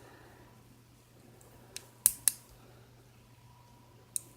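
Nail clippers snipping through a broken thumbnail: a few short sharp clicks, a close pair about two seconds in and another near the end.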